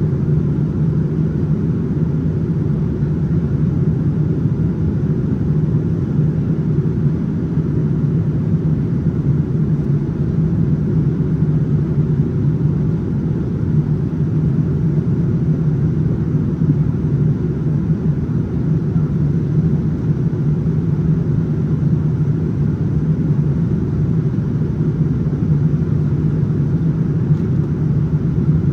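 Steady cabin noise inside a Boeing 787-9 airliner in flight: a constant rumble of engines and airflow with a steady hum.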